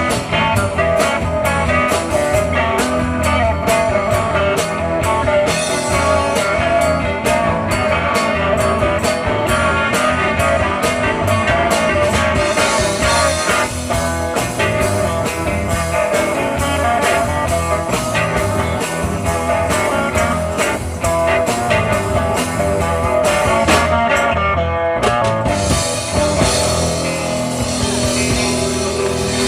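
Live rock band playing: electric guitars, bass, keyboards and drum kit over a driving beat. Near the end the band settles onto a long held chord.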